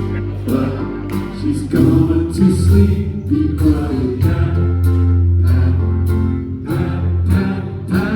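Live rock band music: drums keep a steady beat, about two hits a second, under sustained chords and bass, with group vocal harmonies.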